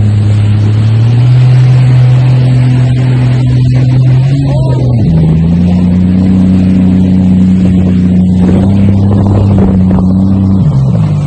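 Jet ski engine running hard under way, its note stepping up about five seconds in and dropping near the end, with a steady rushing noise over it.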